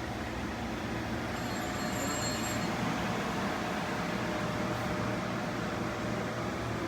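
Steady street background noise with a constant low hum, the kind of rumble given off by traffic and machinery. A faint high-pitched tone sounds briefly about a second and a half in.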